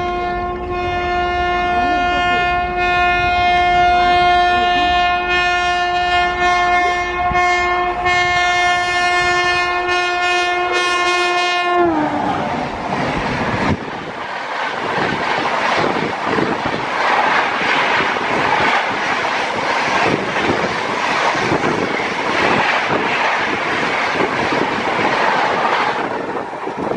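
Rajdhani Express electric locomotive sounding one long, steady horn blast as it approaches at speed, the pitch dropping sharply as it passes close by. The red coaches then run past alongside on the next track with a loud rushing and clattering of wheels over the rail joints, until the rear power car goes by near the end.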